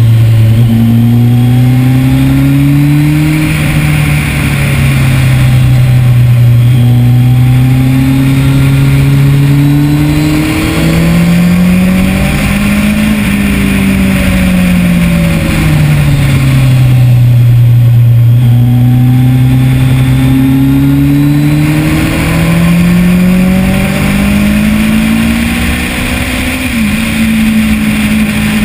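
2010 Kawasaki ZX-10R's inline-four engine at full racing pace, heard from on board, its pitch climbing hard and falling back several times as the bike accelerates and slows, with a sudden drop near the end.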